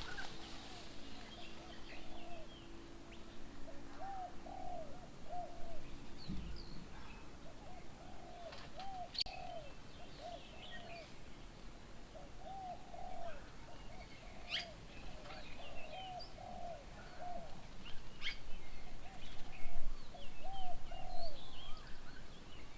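A dove cooing in short repeated phrases of several soft notes, again and again, while smaller birds chirp and give sharp calls around it.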